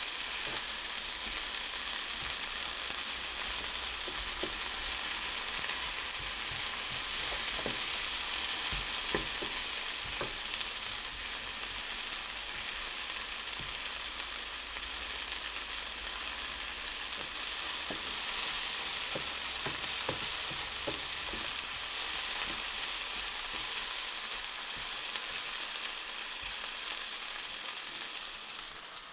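Fajita filling sizzling steadily in a hot frying pan, stirred now and then with a utensil that knocks lightly against the pan. The sizzle drops near the end.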